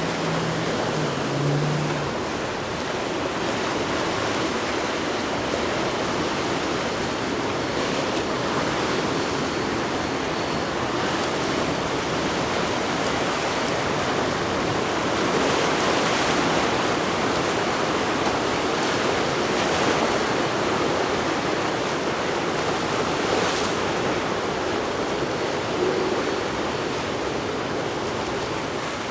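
Steady rushing noise of open water and wind at an ocean inlet, swelling slightly now and then, with no engine tone standing out.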